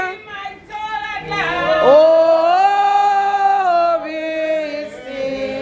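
Slow, unaccompanied hymn singing with long held notes. After a short break for breath, a long sung note rises and is held for about two seconds.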